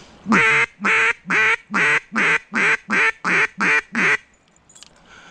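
A loud series of about ten duck quacks, roughly two a second and quickening slightly after the first few.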